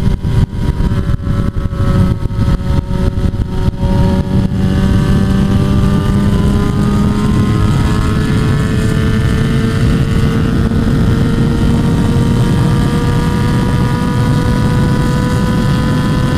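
Motorcycle engine pulling steadily at speed, its pitch rising slowly as it accelerates. Wind buffets the microphone in the first few seconds, then the sound evens out.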